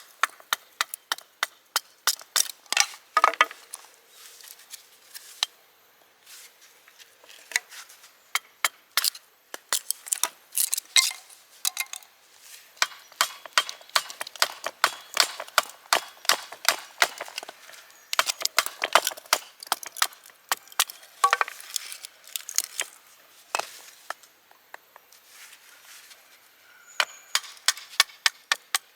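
A long run of sharp, irregular clicks and cracks, coming in quick clusters with short lulls between them.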